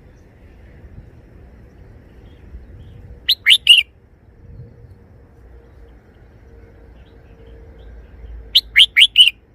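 Red-whiskered bulbul singing two short, loud phrases: three quick notes about three seconds in and four quick notes near the end.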